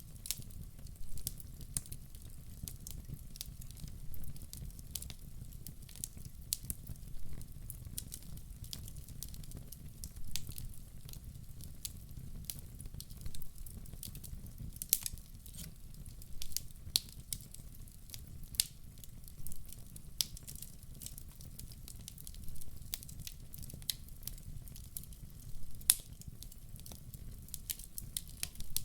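Wood fire burning in a fireplace: irregular sharp crackles and pops from the burning logs over a steady low rumble of the flames, with a few louder pops.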